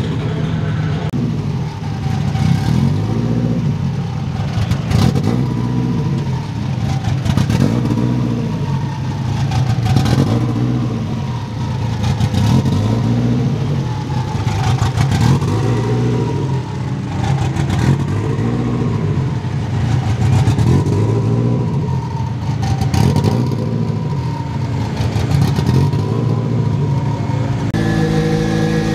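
Race car engine revved over and over in short throttle blips, each rising and falling in pitch about every two seconds, with some crackling. About a second before the end it settles into a steady idle.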